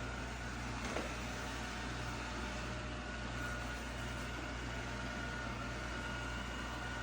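iRobot Roomba 692 robot vacuum running steadily, a whirring motor noise with a faint high whine, and a light knock about a second in.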